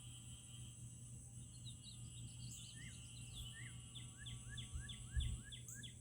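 A songbird singing a series of repeated slurred whistled notes, speeding up to about three notes a second in the second half, over a steady high-pitched drone. A low thump about five seconds in.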